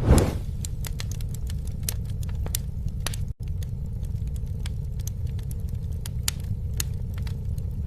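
A campfire burning: a steady low rumble with frequent sharp crackles and pops. A louder rush of noise comes just after the start, and the sound drops out for a split second about three and a half seconds in.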